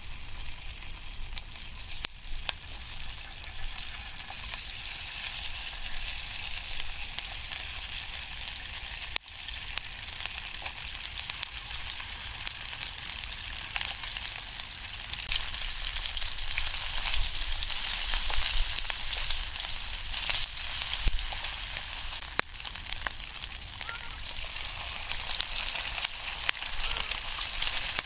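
Sausage slices sizzling and crackling in hot oil in a frying pan over a camping stove, the sizzle growing louder about halfway through as the pan fills.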